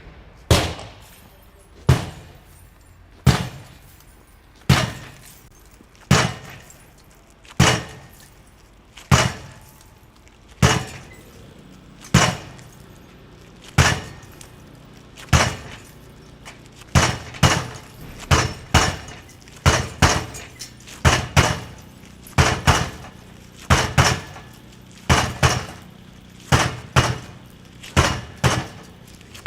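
Sledgehammer blows striking a pane of Silatec P6B-rated security glass, each a sharp crack with a short ringing tail. The blows come about every second and a half at first, then about twice as fast from roughly halfway through.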